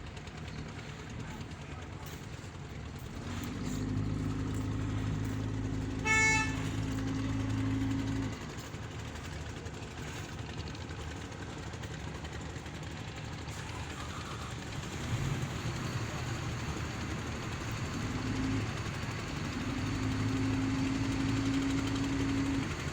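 Boat horns sounding over running boat engines: a long, low, steady blast, a short higher toot about six seconds in, and another long low blast near the end.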